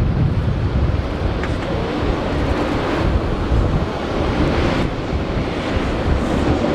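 Strong wind buffeting the microphone over the low, steady rumble of an Airbus A380's Rolls-Royce Trent 900 jet engines.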